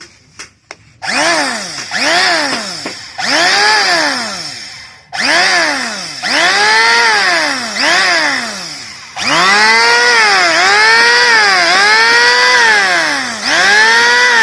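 Electric hand planer with a newly replaced bearing, its motor switched on and off over and over: a whine that rises as it spins up and falls as it slows, repeatedly. A few clicks come first, and the motor first starts about a second in.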